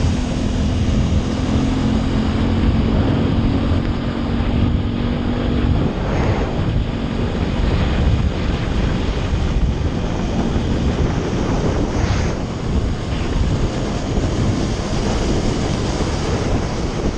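Motorcycle riding, with heavy wind noise buffeting the microphone. A steady engine hum underneath drops away about six seconds in.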